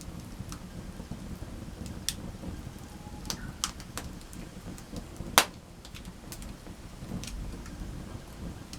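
Campfire crackling: scattered sharp pops and snaps over a steady low rumble of the burning fire, with one loud pop about five and a half seconds in.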